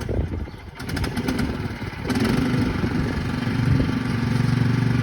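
Craftsman lawn tractor's 15.5 hp overhead-valve engine: a rapid clatter for about a second, then the engine catches about two seconds in and runs steadily.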